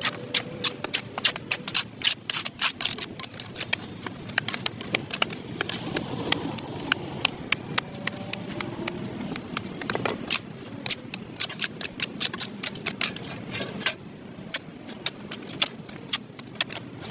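A hand tool scraping and chipping packed dirt off a concrete sidewalk: quick, irregular sharp scrapes and clicks, several a second, easing off about three-quarters of the way through.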